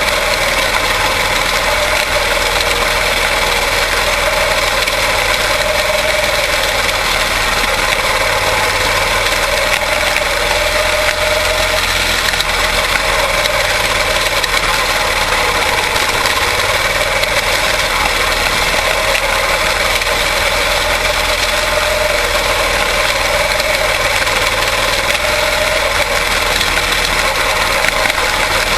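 Quarter midget race cars with Briggs & Stratton Animal single-cylinder engines running together on track, a loud steady engine drone whose pitch wavers slightly up and down.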